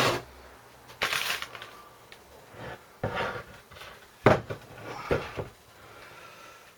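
Metal tools and engine parts being handled on a workbench: a string of separate clinks, clatters and knocks, the sharpest about four seconds in.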